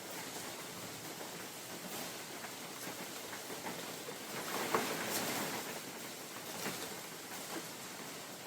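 Spring rain falling on a forest with wind, a steady hiss with scattered sharp drips, swelling louder for a moment about halfway.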